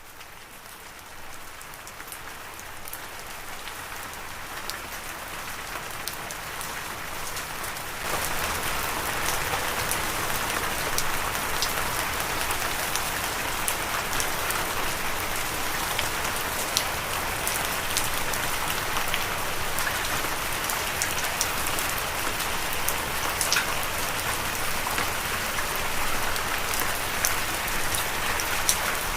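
Steady rain with individual drops ticking sharply. It fades in and builds over the first several seconds, then grows louder about eight seconds in and holds steady.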